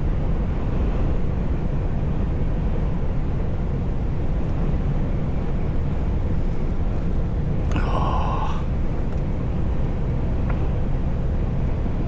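Steady low rumble of a truck's engine and road noise heard inside the cab while driving. A short higher-pitched sound cuts in briefly about eight seconds in.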